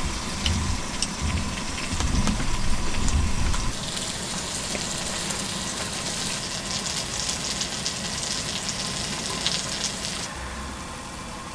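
Food frying and sizzling on a hot griddle, with fine crackling pops. The sizzle grows louder about four seconds in and cuts off sharply near the end.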